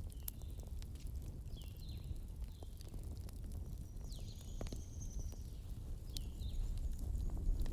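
Wood fire burning with a steady low rumble and scattered sharp crackles and pops. A few short high chirps that sweep downward, and one thin high whistle near the middle, sound over the fire.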